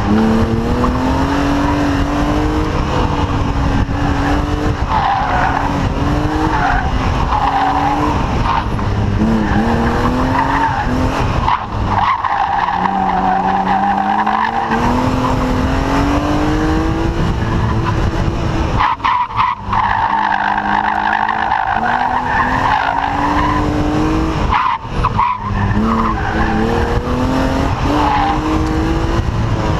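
1998 BMW E36 M3's 3.2-litre straight-six driven hard, its revs climbing and falling again and again. Tyres squeal through the corners over it, and the engine note drops away briefly a few times.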